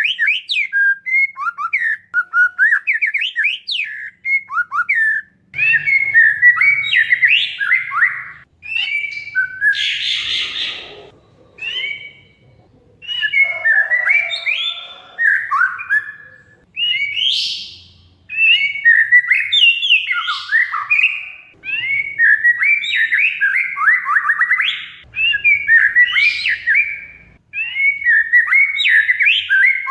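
Oriental magpie-robin (kacer) in full song: fast, varied phrases of rapid trills, chirps and whistled glides, broken by short pauses. About ten seconds in there is a brief harsh, rasping chatter.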